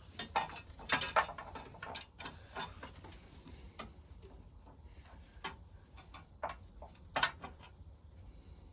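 Irregular light metallic clicks and knocks, close together in the first three seconds and then scattered, as the soldered oil pipes of a 1921 Lister TM engine are wiggled and worked out through the sump, tapping against the engine's metal.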